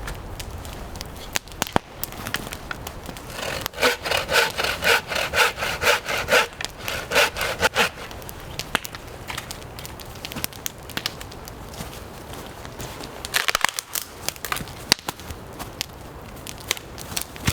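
Saw cutting wood: a run of quick back-and-forth rasping strokes, about two to three a second, for roughly four seconds, followed by scattered knocks and clicks.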